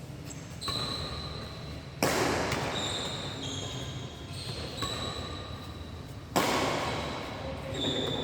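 Two loud, sharp badminton racket strikes on the shuttlecock, about four seconds apart, ringing in a large hall, with short high squeaks of shoes on the court floor between them.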